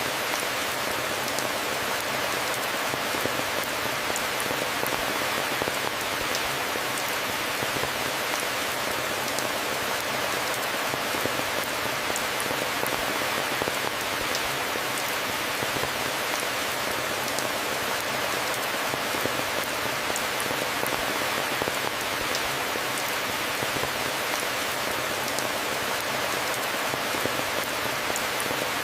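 Steady rain falling on a surface, an even hiss with many fine drop ticks, unchanging throughout.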